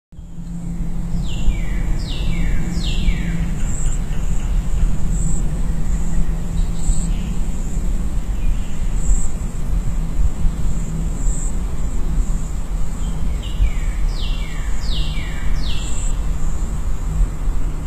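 Outdoor garden ambience: a bird gives runs of three falling whistled notes, once about a second in and again near the end, over a steady high insect drone that swells every couple of seconds. Underneath is a loud low rumble.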